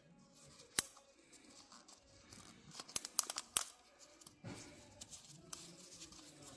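Crinkling and rustling handling noise as oil filter parts are worked by hand, with a sharp click about a second in and a cluster of clicks around three to three and a half seconds in.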